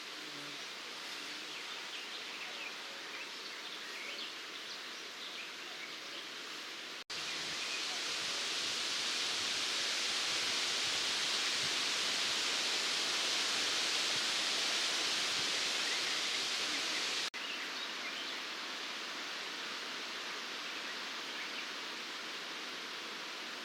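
Outdoor summer meadow ambience: a steady high hiss with faint, brief chirps over the first several seconds. About seven seconds in, the sound cuts abruptly to a louder hiss, then cuts back to the quieter ambience about ten seconds later.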